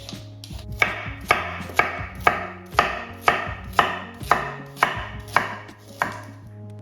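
Knife chopping vegetables on a cutting board in a steady rhythm of about two strokes a second, stopping near the end.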